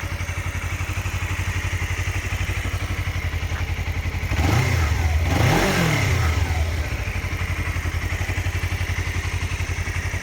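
2017 Suzuki GSX250R's parallel-twin engine idling through its stock exhaust, revved briefly about four seconds in, the pitch climbing and falling back before it settles to idle again.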